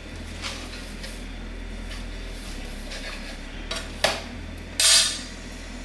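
Kitchen cookware being handled: a few light clicks and taps, a sharp knock about four seconds in, and a short, louder clatter just before five seconds.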